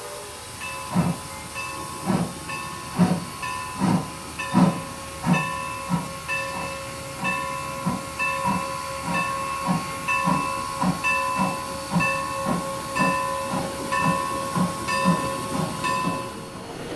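Steam locomotive sound: slow, even exhaust chuffs about every half second or so, with hiss and a steady high whine behind them. The chuffing cuts off suddenly near the end.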